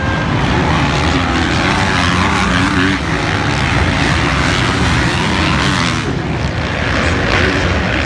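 Motocross bike engines revving hard, the pitch rising and falling as the riders work the throttle.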